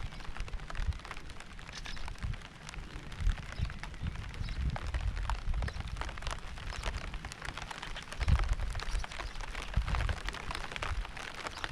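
Rain falling, with many separate drops ticking close by over a steady hiss. Low rumbles come and go, the strongest about eight seconds in.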